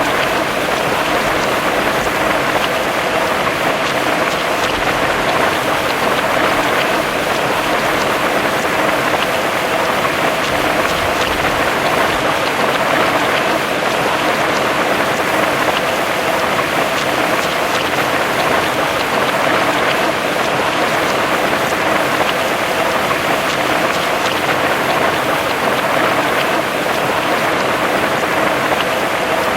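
Heavy rain falling steadily, a dense even hiss with many fine drop patters.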